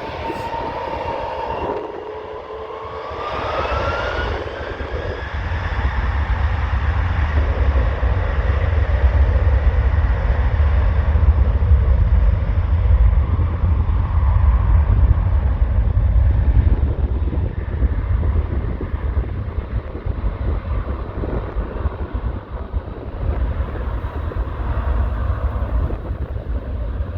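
Jet airliner's engines at takeoff: a whine rising in pitch over the first few seconds, then a deep, loud rumble that builds, peaks midway and slowly fades as the aircraft departs.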